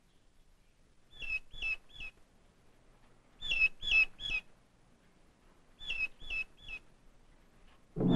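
A songbird chirping: three bursts of three quick whistled notes, each note dropping in pitch, with a pause of a couple of seconds between bursts.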